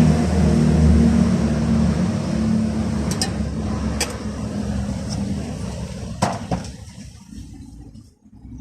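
A motor vehicle engine running steadily and fading away over several seconds, with a few sharp clicks and a knock a few seconds in.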